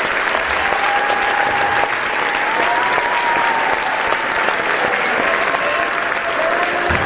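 An audience applauding: dense, steady clapping from many hands with no break.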